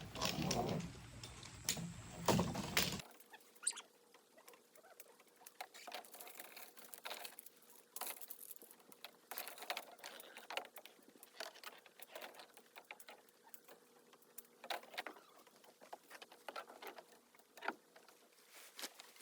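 Scattered rain pattering and tapping in many small irregular clicks, with a few louder taps and rustles. The first three seconds are louder, with a low rumble that cuts off suddenly.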